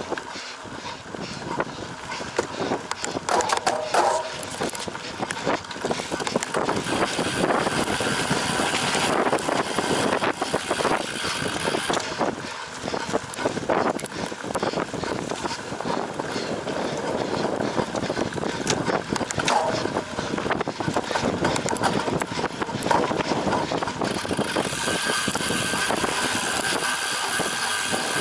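Cyclocross bicycle ridden over rough ground: tyres rolling on dirt, and the chain and frame rattling with many sharp clicks, over a steady rush of noise.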